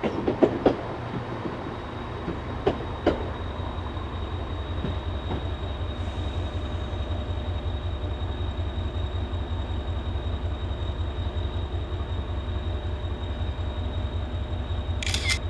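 Diesel multiple unit's engine running at idle: a steady, rapidly pulsing low rumble with a faint high whine over it. A few clanks and knocks come in the first three seconds.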